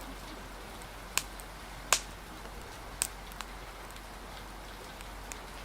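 Wood fire crackling over steady rain: a few sharp pops, the loudest about two seconds in, against a constant hiss.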